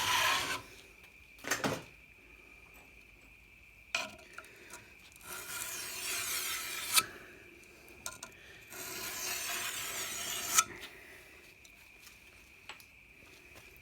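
Hand file drawn lightly over the steel bed knife of a reel mower to sharpen it: a few short scrapes, then two long, slow strokes, each ending in a light metallic click.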